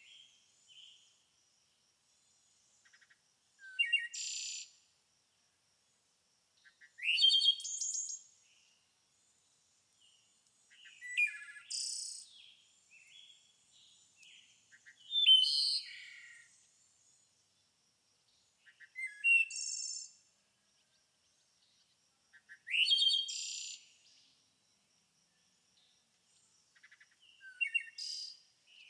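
A songbird singing short, loud, rising and chirping phrases of about a second each, repeated seven times at roughly three- to four-second intervals with quiet gaps between.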